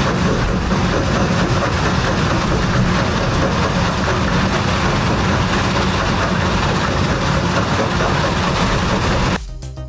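Heavy rock-crushing machine running under load: a loud, steady grinding rumble with a low hum. It cuts off suddenly near the end, where music starts.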